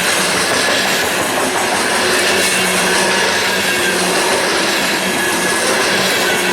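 Freight train rolling past: a steady, loud rolling noise of steel wheels on rail, with a faint steady whine running through it.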